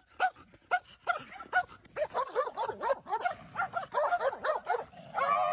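Dog yipping in short high barks, about two a second, then faster, overlapping yips from about two seconds in.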